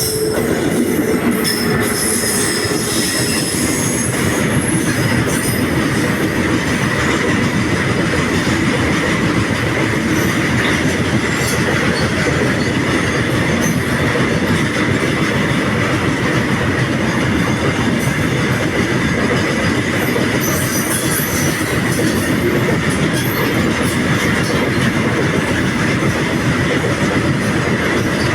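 Freight train of oil tank wagons rolling along the track: a loud, steady rumble of steel wheels on rail with a thin high wheel squeal running through it, and sharper squeals near the start and about two-thirds of the way through.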